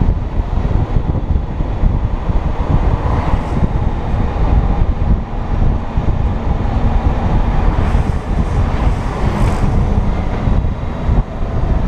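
Wind buffeting the microphone over the steady running and road noise of a Honda Gold Wing motorcycle being ridden.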